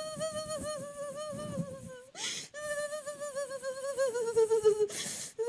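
A woman's voice holding a long, high, warbling wail without words. It breaks about two seconds in for a sharp breath, then sinks slowly in pitch, with another breath near the end. The preacher takes it for speaking in tongues during a deliverance.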